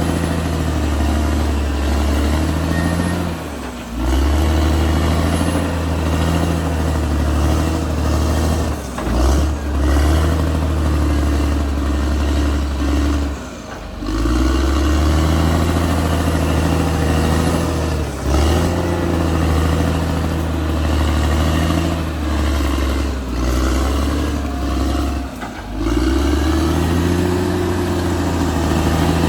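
Caterpillar D6R XL bulldozer's diesel engine working under load. The engine note drops and picks up again about six times as the revs fall and recover.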